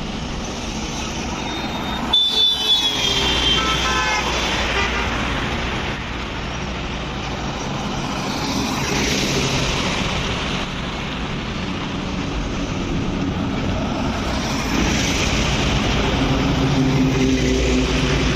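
Truck engines running amid road traffic noise, with a vehicle horn tooting briefly about two seconds in. The engine note grows louder near the end.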